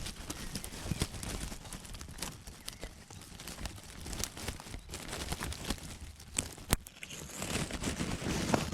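Rustling and crackling of twigs and leaves in a thorn hedge as a small camera is pushed in among the branches, with many small irregular clicks and one sharp click about two-thirds through.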